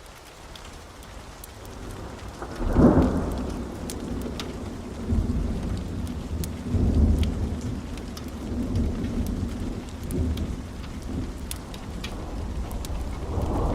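Fireplace fire crackling, with sparse sharp pops over a deep rolling rumble that swells about three seconds in and comes back in waves.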